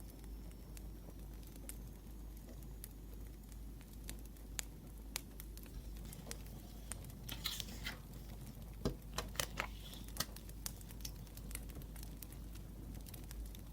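Wood fire crackling: irregular sharp pops over a low steady rumble, with a cluster of louder pops about nine to ten seconds in. A short rustle comes about seven and a half seconds in.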